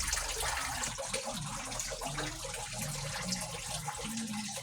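A paint spray gun hissing steadily as epoxy paint is sprayed.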